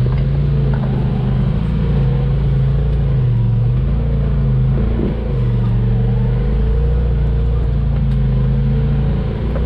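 Off-road vehicle engine running steadily under changing throttle, its pitch stepping up and down as it drives a trail.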